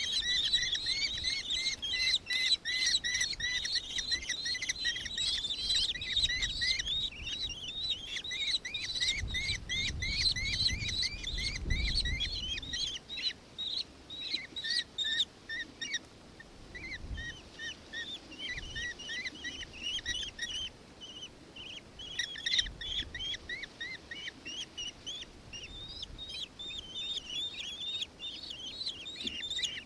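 Birds calling: a dense series of short, high chirps repeated over and over, thinning a little in the middle. A low rumble comes in briefly about ten seconds in.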